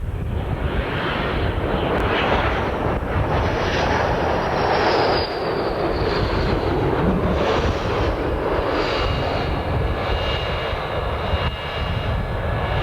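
Jet noise from a B-1B Lancer's four General Electric F101 afterburning turbofans, a steady heavy rush with a high whine that slides down in pitch a few seconds in.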